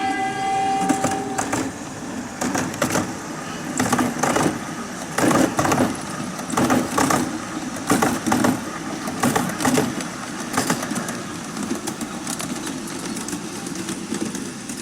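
Large-scale model train wheels clicking over the rail joints, a clickety-clack in quick pairs about every second and a half. A held horn tone ends about a second and a half in, before the clicks.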